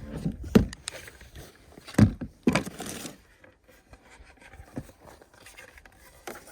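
Handling noise of cooking gear and food being set out: a few sharp knocks, the loudest about half a second and two seconds in, a brief rustle of packaging just after, then a few quieter clicks and scrapes.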